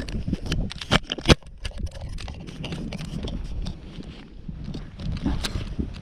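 Irregular knocks and clatters over a steady low rumble, the sharpest a little after a second in.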